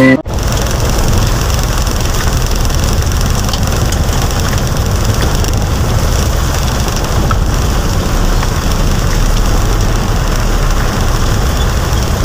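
Heavy downpour with a vehicle running, heard from inside the vehicle's cabin: a steady rush of rain over a continuous low rumble.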